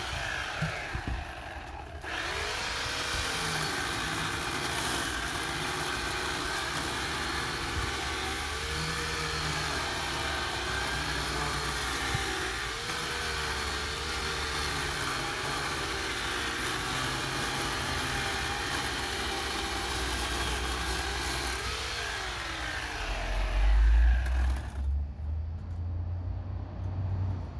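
Harbor Freight Portland chainsaw running and cutting wood. Its motor note repeatedly dips and recovers as the chain bites, then the saw cuts off about 25 seconds in. Heavy low rumbling and a thud come near the end.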